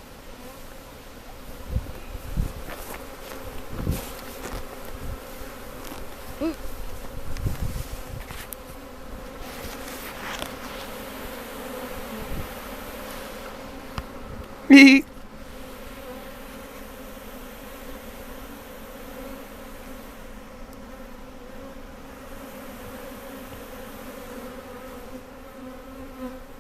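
Swarm of honey bees buzzing around the hive, a steady massed hum. A few low knocks come in the first several seconds, and one short, loud burst about halfway through.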